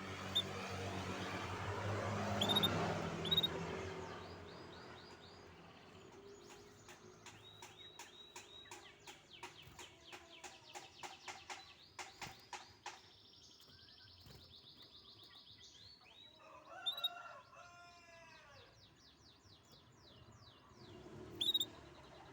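Canary singing: long rapid trills and rolls of repeated high notes, a held whistled note about halfway through, then a run of falling notes and another fast trill. Over the first few seconds a louder rushing sound with a low drone swells and fades under the song.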